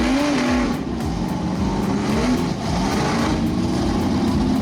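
Off-road truck engine revving, its pitch climbing and dropping a few times in the first half and then holding steady under load, with a loud rushing noise alongside.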